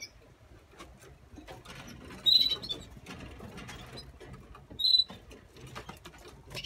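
Canaries giving short, high chirps, two loud ones about two and five seconds in, over light clicks and scratching.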